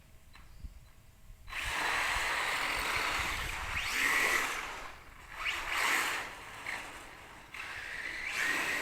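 Electric RC trucks speeding and drifting on a dusty concrete floor: motor whine with tyres scrubbing and sliding, in three long bursts starting about a second and a half in.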